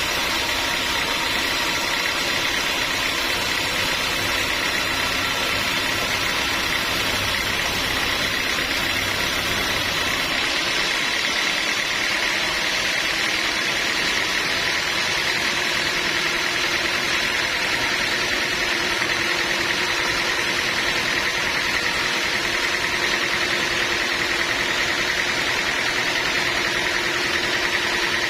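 Sawmill machinery running steadily: a continuous mechanical drone with a steady high whine. The low rumble drops away about ten seconds in.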